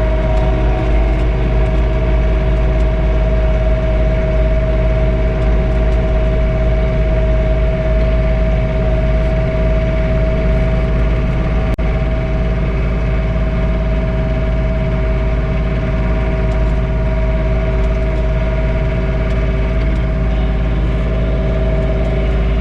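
John Deere 3046R compact tractor's diesel engine running steadily while driving a PTO snowblower, heard from inside the closed cab. It is a constant drone with a steady whine on top.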